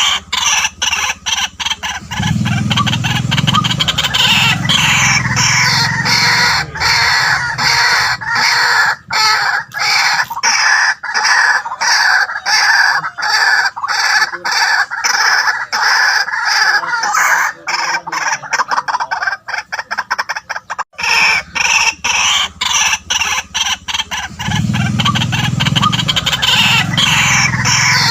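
White-breasted waterhen calling: a long, loud run of rapid, repeated harsh notes. The calling breaks off abruptly about three quarters of the way through and starts again.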